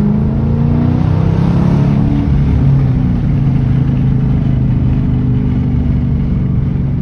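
Dodge Challenger R/T's 5.7-litre Hemi V8 running through a straight-piped exhaust, heard from the cabin with the window down. It pulls under acceleration with its pitch shifting for the first two seconds or so, then settles into a steady drone at cruise.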